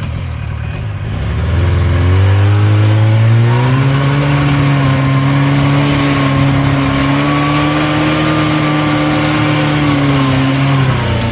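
Buran snowmobile's two-stroke engine revving up about two seconds in and held steady at high revs for several seconds, then dropping off near the end, as the machine works its way through overflow slush on the ice.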